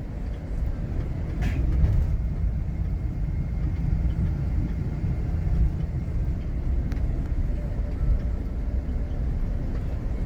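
Bus riding along, a steady low rumble of engine and road noise heard from inside the cabin, with one brief sharp click about a second and a half in.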